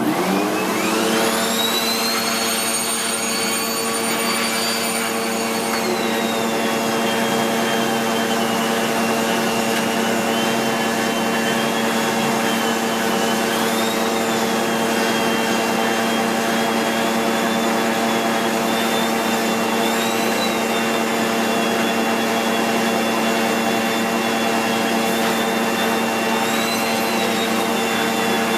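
SEBO X4 Extra upright vacuum cleaner switched on and its motor spinning up with a rising whine, then running steadily under suction through the extended stair hose. The whine drops about six seconds in and wavers a few times as the hose tool works.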